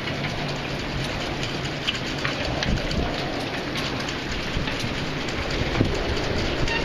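Typhoon rain and wind: a dense, steady rush of wind-driven rain with many small patters of drops, and a low rumble of wind on the microphone.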